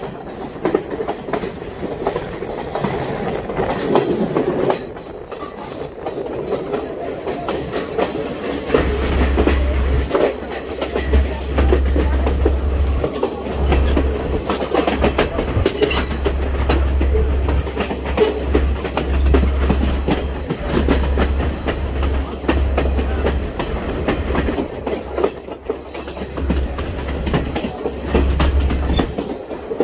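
Train running along the track, heard from on board: steady wheel clatter over the rails, with a deep low rumble that comes and goes from about nine seconds in.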